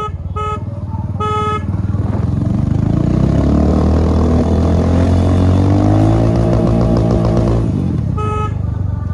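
Yamaha MT-15 motorcycle's 155 cc single-cylinder engine accelerating, its pitch rising for several seconds, holding, then easing off near the end. A horn beeps twice in the first two seconds and once more near the end.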